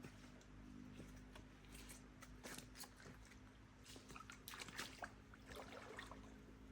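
Near silence with faint, irregular small clicks and rustles, a little busier about two and a half seconds in and again between four and five seconds.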